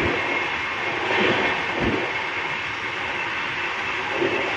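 Passenger train running at speed, heard from inside the coach: a steady rush of wheels on rails, with a few low knocks from the wheels and track.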